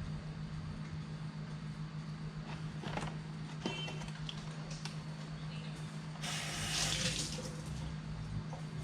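Water runs briefly, for about a second past the middle, over a steady low hum, with a few light clicks before it.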